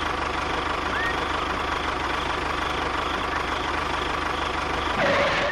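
A tractor engine sound runs steadily at an idle-like pace, with a fast, even beat. Near the end there is a short swish.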